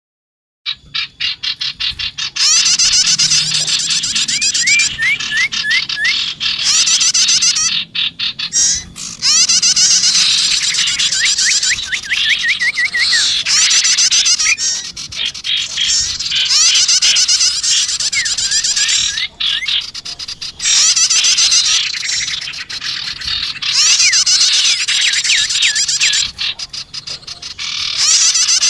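Recorded calls of small songbirds, sirtu and prenjak (prinia), played as a bird-trapping lure: dense, high, rapid chattering trills with short runs of rising chirps, starting about a second in.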